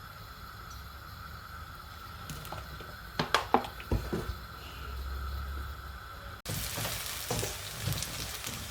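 A low steady hum with a few sharp clinks about three to four seconds in. After an abrupt cut about two-thirds of the way through comes sizzling of food frying in hot oil in a pan.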